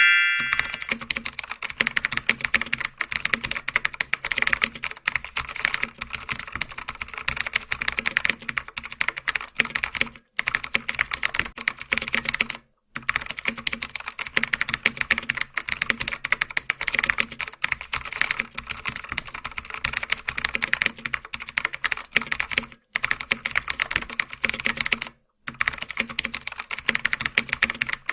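Rapid keyboard typing, a steady run of quick key clicks broken by a few short pauses.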